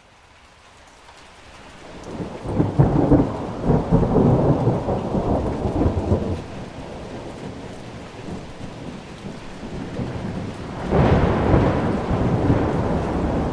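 Rain falling, fading in at the start, with thunder. A long rumble rolls in about two seconds in and lasts several seconds, and a second rumble starts near the end.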